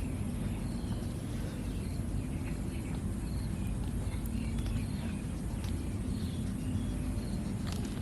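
Steady low outdoor background rumble with faint, short high chirps scattered through it.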